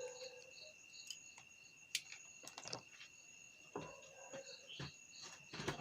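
Faint insect chirping, likely crickets: a steady high trill with a soft pulse about two or three times a second. A few light clicks and knocks sound over it.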